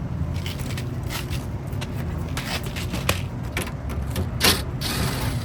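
Short scrapes and light metal clicks as a run capacitor is worked loose and pulled out of an air-conditioning condenser's electrical panel, the loudest scrape about four and a half seconds in, over a steady low rumble.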